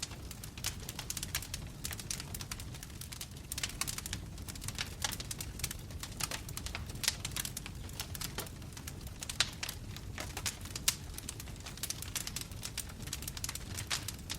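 Wood fire burning in a fireplace, crackling with frequent, irregular sharp pops over a steady low rumble of the flames.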